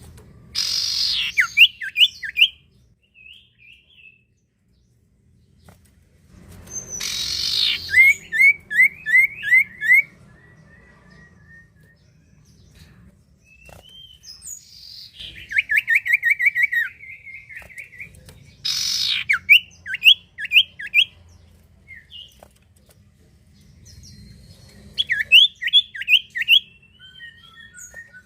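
Common iora (cipoh, also called sirtu) singing in repeated bouts, about five in all. Each bout opens with a harsh rasping churr, then runs into a quick string of short, rising whistled notes.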